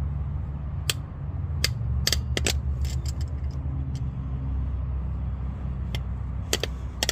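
Sharp metallic clicks and taps of pliers and a wrench on the drum-brake hardware as a stuck part is worked back and forth, in a bunch during the first few seconds and again near the end, over a steady low rumble.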